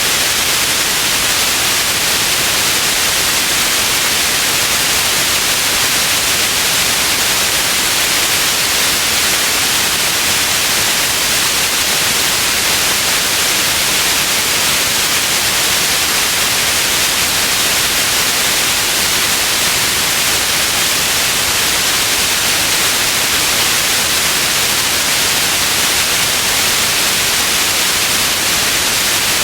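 Steady white noise: an even, unbroken hiss weighted toward the high end, with no change in level or character.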